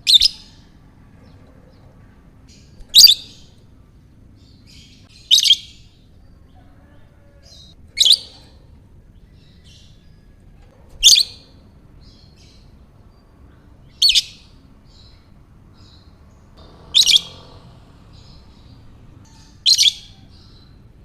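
Lovebird giving short, sharp, high chirping calls, eight of them evenly spaced about three seconds apart.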